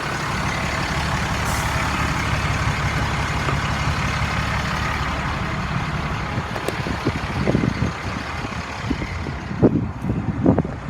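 International DT466 inline-six diesel engine idling steadily, with a few knocks near the end.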